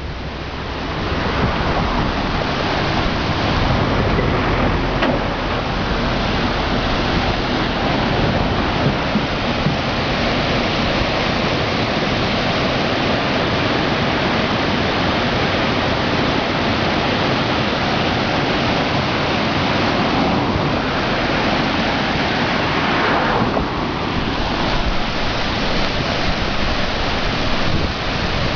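Floodwater of a river still swollen after a typhoon, rushing steadily and loudly through a fish weir (yana).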